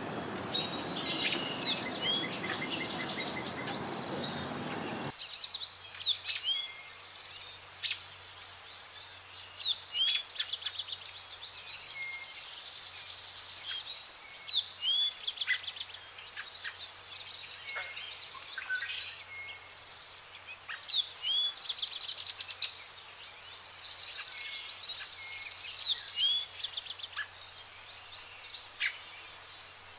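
Songbirds chirping and trilling: many quick high notes, short upswept calls and rapid trills from several birds overlapping. A steady rushing noise underneath stops abruptly about five seconds in.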